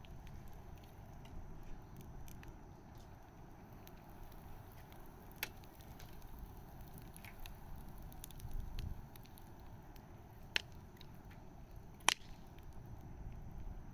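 Wood bonfire burning: many small scattered crackles over a low steady rumble, with a few sharper pops, the loudest near the end.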